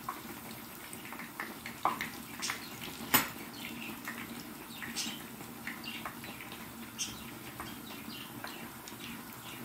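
Batter-coated naan pieces deep-frying in a pan of oil, a steady sizzle with scattered crackles and pops. A few sharp metal clinks, the loudest about three seconds in.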